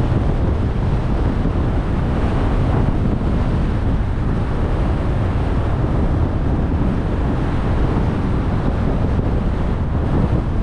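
Steady road and wind noise of a car driving, with wind buffeting the microphone.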